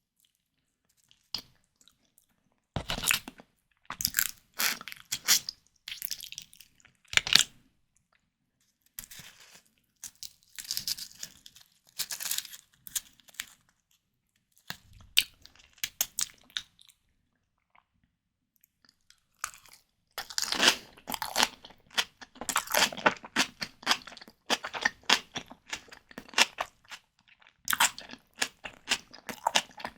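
Close-miked eating sounds of white tiger prawn cocktail: bouts of chewing with sharp, wet clicks of mouth and food, broken by short silent pauses, and busiest in the last third.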